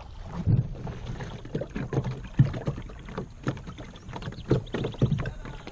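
Irregular knocks and thumps from a Hobie Pro Angler 14 kayak being handled afloat, the sharpest about two and a half seconds in.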